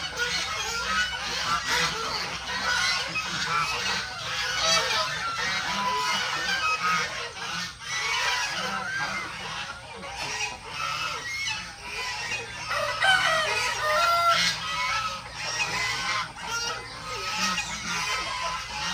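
A flock of geese and chickens calling all at once: geese honking over chickens clucking, many calls overlapping without a break.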